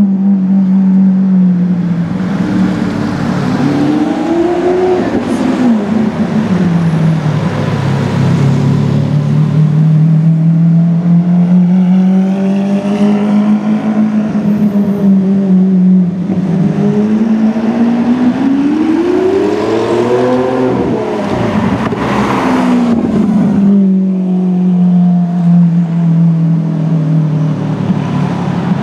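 Lamborghini Aventador's V12 with a Capristo exhaust, running loud at low revs while cruising. Twice the revs climb and then drop off quickly, about five seconds in and again near twenty seconds.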